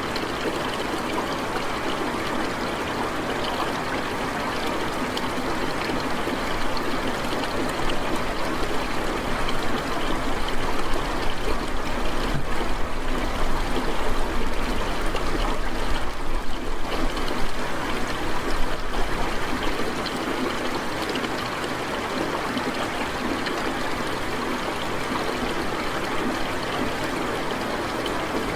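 Steady splashing water noise with no distinct drops or clicks, a little louder for a stretch in the middle.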